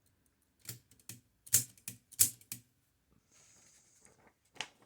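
Manual typewriter mechanism clacking as it is handled: several sharp clacks in the first couple of seconds, a brief faint hiss a little past the middle, and one more clack near the end.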